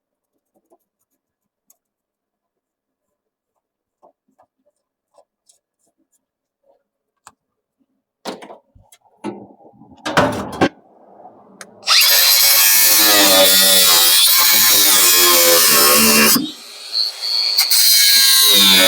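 After several seconds of near silence and a few knocks of handling, a handheld power tool starts up on the car's sheet-metal quarter panel at about twelve seconds, running loud with a wavering pitch under load. It stops about four seconds later and starts again near the end.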